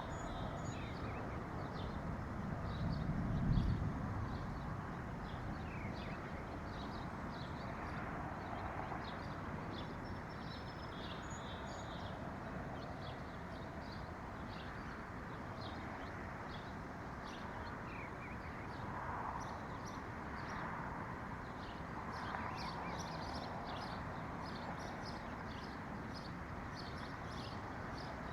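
Wild birds chirping: many short, quick chirps repeating throughout over a steady background hiss, with a brief low rumble about three seconds in.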